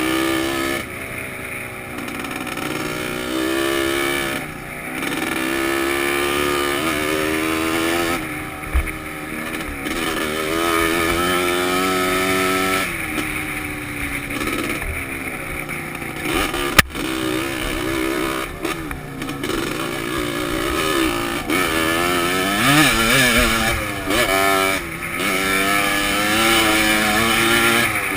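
Off-road trail motorcycle engine, heard close from a helmet-mounted camera, its pitch rising and falling over and over as the throttle opens and closes. Two sharp knocks cut through it.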